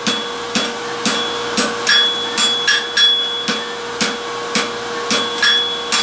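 Hand hammer striking hot steel on an anvil, about two blows a second, each with a short metallic ring, as a forged ring is squared up at its corners. A steady hum runs underneath.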